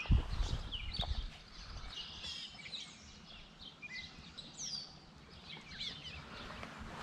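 Several songbirds chirping and singing in short, scattered phrases. In the first second, a few low knocks, the loudest sound here, come from handling close to the microphone.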